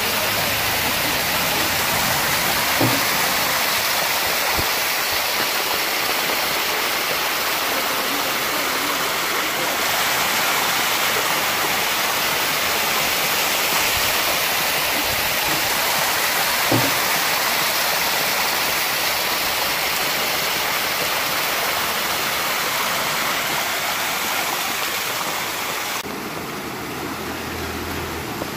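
Floodwater rushing steadily, with two brief knocks; the rush drops a little near the end.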